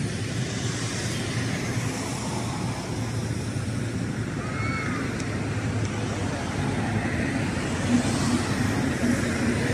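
Steady rumbling noise of a distant fireworks display, with no distinct bangs standing out.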